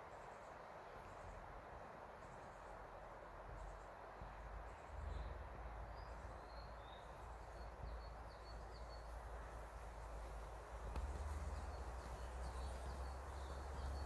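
Faint woodland birdsong: small birds chirping in quick runs of short high notes over a steady background hiss. A low rumble underneath grows louder about five seconds in and again near eleven seconds.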